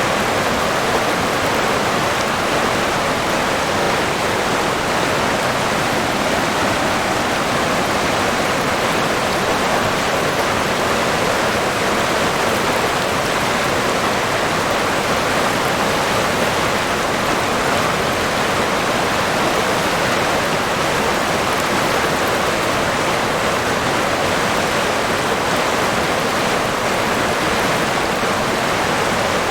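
River water rushing and babbling steadily over rocks, an even, unbroken flow.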